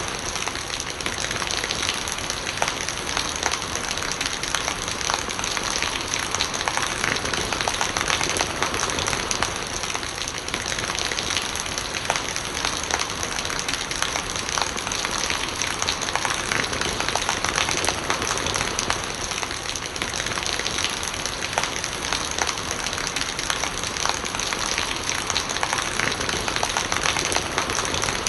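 Steady rain falling, a dense patter of drops over a constant hiss.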